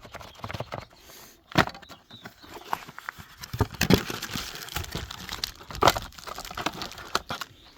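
Plastic packaging rustling and crinkling as a new folding saw is unwrapped and handled, with several sharp clicks or knocks.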